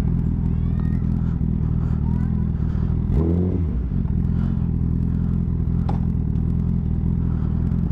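Honda CBR1000RR inline-four motorcycle engine running at a steady speed while riding, with a brief dip and rise in pitch about three seconds in.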